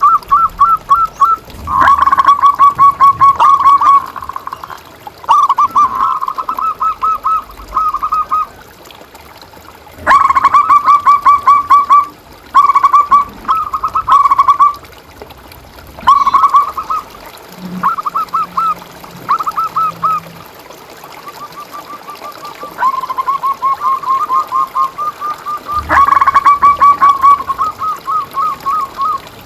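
Zebra doves (perkutut) singing: bouts of rapid, staccato cooing notes lasting a few seconds each, repeated with short gaps throughout.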